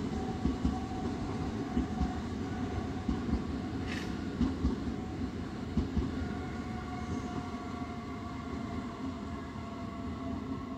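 Red-and-white S-Bahn electric multiple unit moving off along the platform: its wheels knock over rail joints in the first half, with a brief hiss about four seconds in. A steady electric whine from the train carries on as it pulls away.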